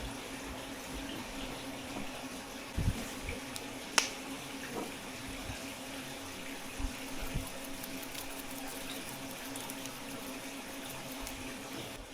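Water running steadily from a kitchen tap, with a few dull knocks and one sharp click about four seconds in.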